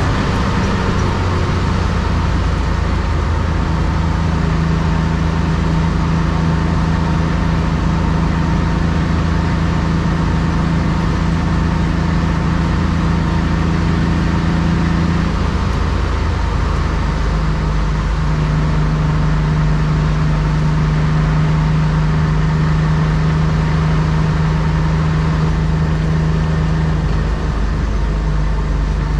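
BMW E36 325i's 2.5-litre M50B25 straight-six, breathing through aftermarket headers and a sport exhaust, heard from inside the cabin while cruising at steady motorway speed, over tyre and road noise. The engine note holds steady, with its pitch dropping and settling once near the start and again about halfway through.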